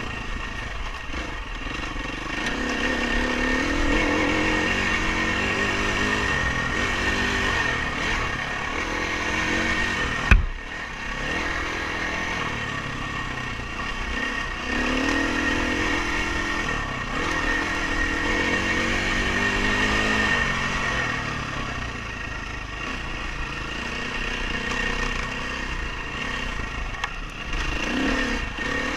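Dirt bike engine being ridden off-road, its pitch rising and falling again and again as the throttle opens and closes. There is a sharp knock about ten seconds in.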